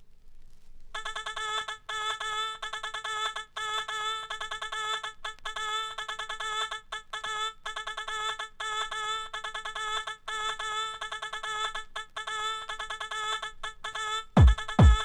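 Intro of a 1990s electronic dance track: a stuttering, chopped synthesized tone holds one pitch with many rapid breaks. Near the end a kick drum comes in at about two beats a second.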